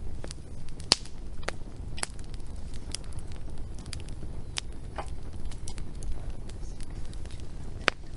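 Wood fire crackling: scattered sharp pops and snaps over a low, steady rumble of burning, with the loudest pops about a second in and near the end.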